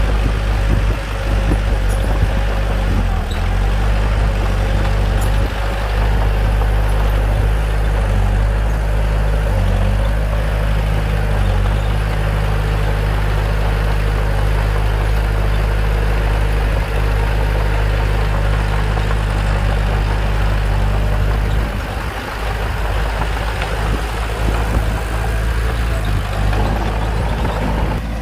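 Bulldozer's diesel engine running steadily with a deep, even drone, easing briefly about three quarters of the way through.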